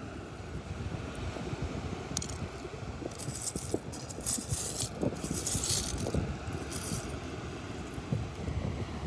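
Loose seashells clinking and rattling against each other in bursts, busiest in the middle, over a low rumble of wind on the microphone.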